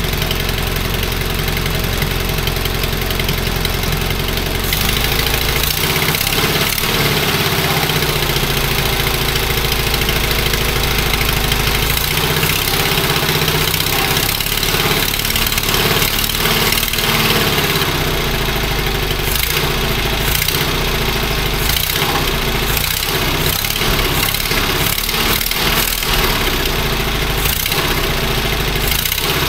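Fiat 126p BIS two-cylinder engine running on both cylinders, its speed rising and falling several times, farting from the exhaust.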